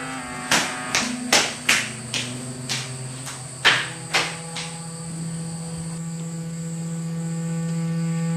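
Film score: a run of about ten sharp, irregularly spaced percussive strikes, each ringing briefly, then a steady low drone that swells toward the end, over a faint constant high whine.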